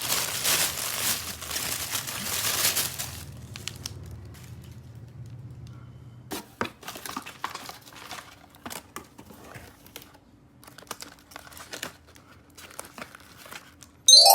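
Plastic packaging crinkling and tearing for about three seconds, then scattered light clicks and taps of plastic toy pieces being handled. A loud bright chime begins right at the end.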